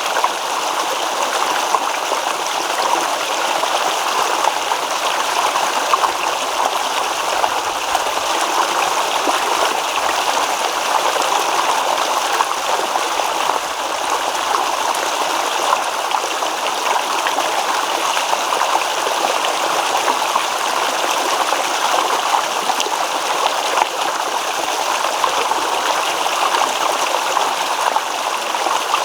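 A small stream babbling and rippling over stones, running water at a steady level.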